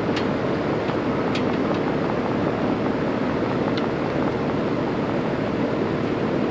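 A machine running steadily, with a few faint clicks over it.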